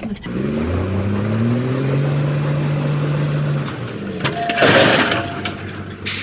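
Car engine accelerating, its pitch rising steadily for about three seconds. Then, about four seconds in, a loud burst of noise with a steady tone through it, and a shorter burst near the end.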